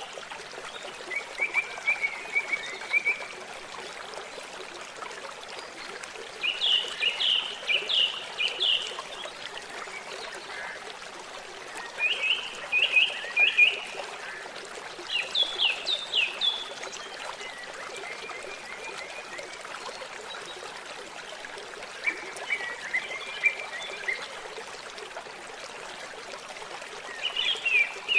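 Water trickling steadily, with short bursts of rapid high chirps from a bird or frog every few seconds.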